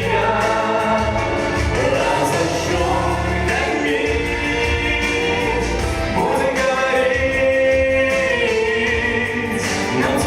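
A man and a woman singing a slow Russian chanson duet over instrumental accompaniment, with a long held note in the second half.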